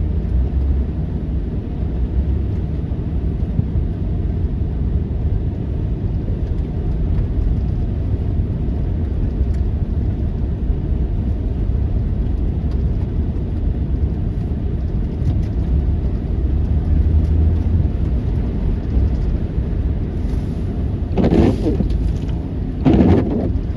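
A steady low rumble, with two brief louder rushes near the end.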